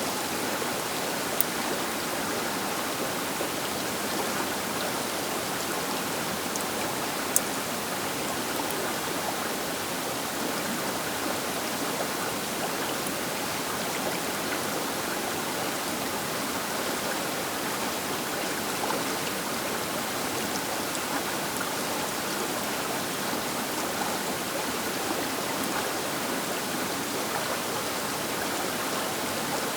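Baker River flowing: a steady, even rush of water. Two brief sharp clicks a few seconds apart near the start.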